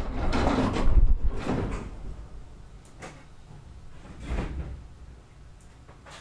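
Sangi Railway Hokusei Line 270 series narrow-gauge electric train running, its wheels knocking over the rail joints with a low rumble. The sound dies away over the first couple of seconds, leaving a few single knocks.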